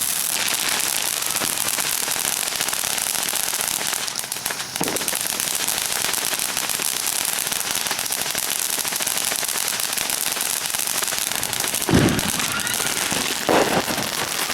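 Handheld or ground consumer firework spraying sparks with a steady crackling hiss, with a sharp louder bang near the end.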